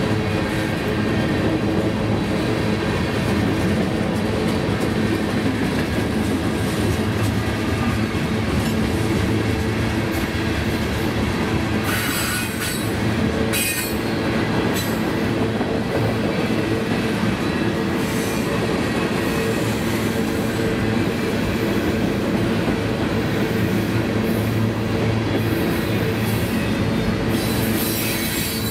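Freight cars of a long mixed freight train rolling past at speed: a steady wheel-on-rail rumble, with brief high-pitched wheel squeals about halfway through and again near the end.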